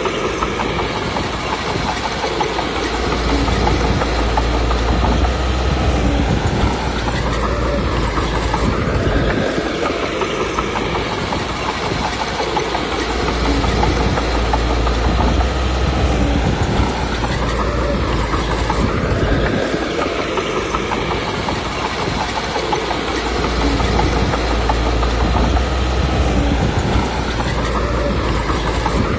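Komatsu D21P crawler bulldozer at work: its diesel engine runs under load with clattering steel tracks. The engine note rises and falls in repeated cycles about every ten seconds, as the dozer pushes forward and backs up.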